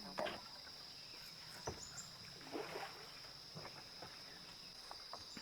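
Steady high-pitched drone of forest insects, crickets or cicadas, with scattered soft knocks and swishes of a hand-rowed boat's oar strokes in the water.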